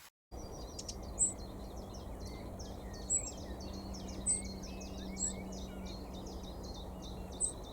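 Wren calling: five sharp, very high chirps spaced a second or two apart, over a fast run of short repeated high notes. This is the parent bird calling as it tries to locate its fledgling.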